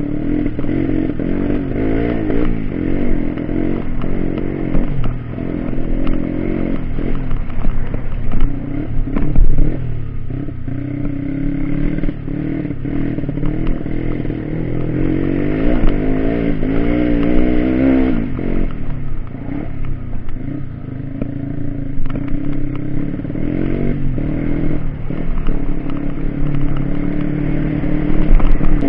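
Trail motorcycle engine revving up and down over and over, its pitch rising and falling repeatedly, as on an off-road trail ride.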